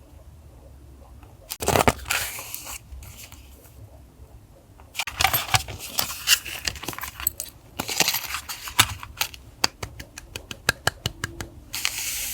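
Paper and stickers being handled for a journal collage: a short rustle about two seconds in, then from about five seconds a busy run of crinkling, tearing and sharp clicks, with a fast run of ticks near the end.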